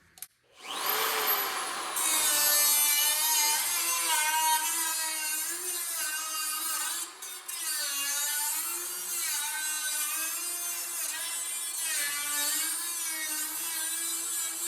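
Handheld grinder spinning up and cutting into sheet steel to trim a panel, its whine sagging and recovering over and over as the wheel is loaded, with a brief break about seven seconds in.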